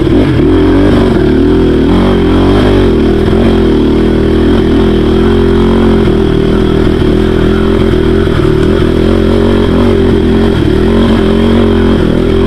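Dirt bike engine running at a steady, low pace, heard close from on the bike as it picks its way over a muddy, rocky track.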